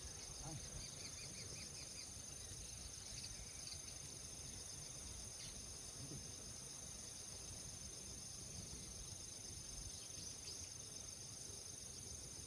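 Steady high-pitched chorus of crickets and other insects trilling, faint, over a low rumble, with a short run of quick chirps about a second in.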